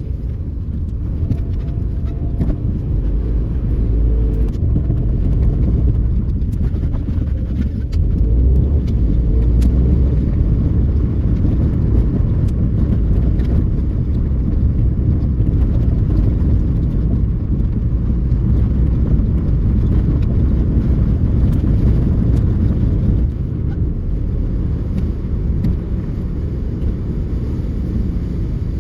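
A car running, a steady low rumble that grows louder a few seconds in and eases off slightly near the end.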